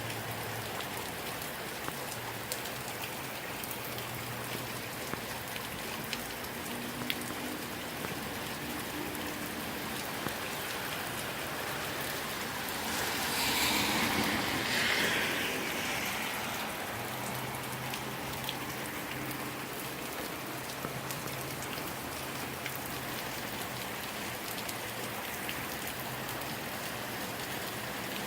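Heavy rain falling steadily, with scattered sharp drop ticks. About halfway through, a louder rushing swell builds and fades over about three seconds.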